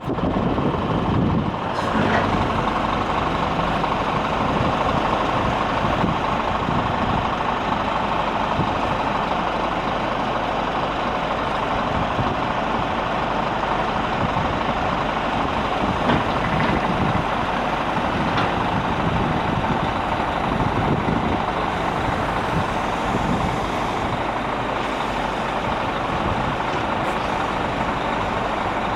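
Scania G450 truck's six-cylinder diesel engine idling steadily.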